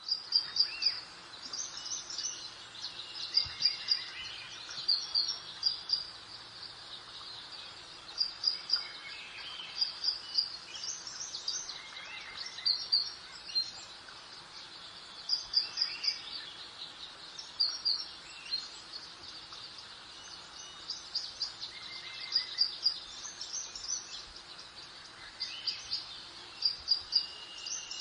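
Birds singing in a spring garden, short high chirping phrases repeating every second or two, over a soft steady hiss of breeze.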